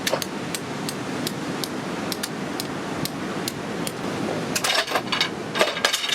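Strong seaside wind and surf noise, with a run of sharp clicks about three a second and a cluster of louder knocks near the end.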